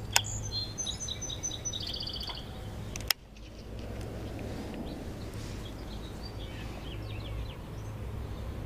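A songbird chirping in a quick run of short high notes over a low hum. About three seconds in, the sound cuts abruptly to the steady, muffled low rush of a GoPro recording underwater.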